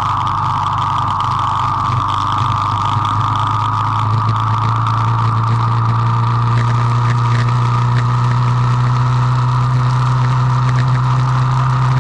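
Car engine running at a steady drone, heard from inside the cabin, over a steady hiss.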